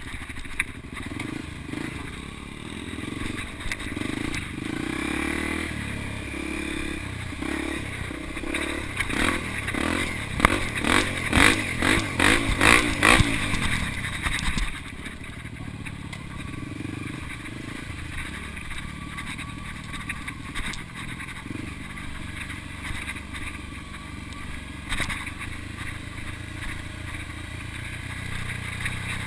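Motocross dirt bike engine revving in a run of repeated throttle surges, the pitch rising and falling with each one and loudest around the middle, then settling into quieter, steadier running for the second half.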